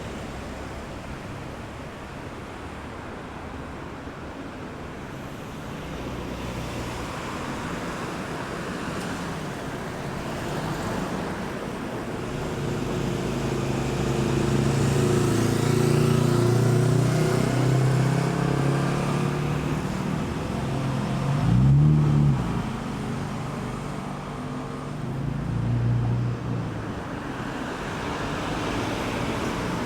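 Steady night road traffic at a roundabout, with vehicles passing. A heavy engine hum builds and holds through the middle, followed by a brief louder pass with a sliding engine pitch about two thirds of the way in.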